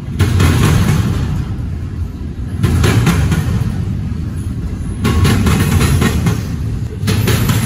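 Double-stack intermodal freight train rolling past close by: a steady low rumble of steel wheels on rail, with a surge of clatter about every two and a half seconds as the cars go by.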